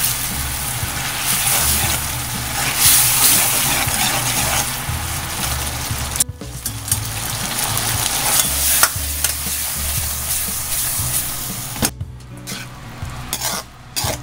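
Eggplant stir-frying in a wok: steady sizzling as a spatula stirs it. The sizzle drops away briefly about six seconds in, then grows quieter near the end, broken by a few sharp knocks.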